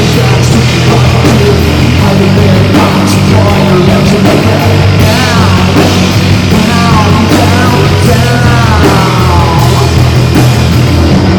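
A live rock band playing loud, dense rock music, with high sliding, wavering notes through the middle.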